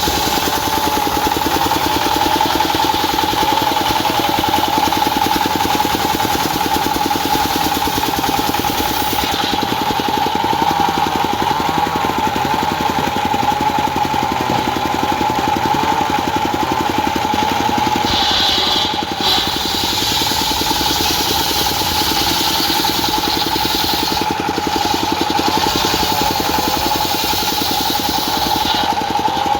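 Diesel-engine-driven homemade circular saw running steadily, with a constant high blade whine over the engine's dense pulsing. The hiss above it shifts a few times, with a brief dip about 19 seconds in.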